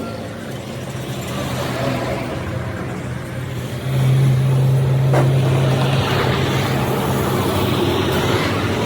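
A vehicle engine running steadily, getting louder about four seconds in.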